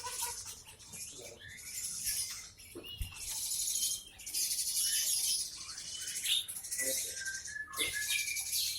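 Many caged songbirds chirping and singing at once in a busy, overlapping chorus of high, rapid notes and short gliding chirps.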